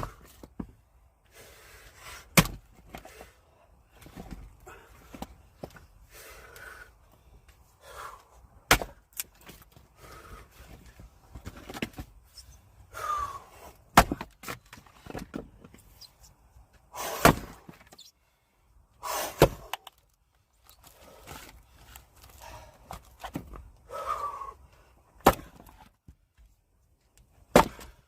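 Axe blows splitting firewood: a sharp crack every few seconds, about seven strikes in all.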